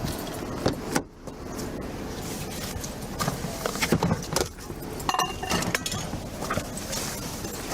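Keys and gear jingling, with scattered clicks and knocks over a steady background hum and a heavier thump about a second in.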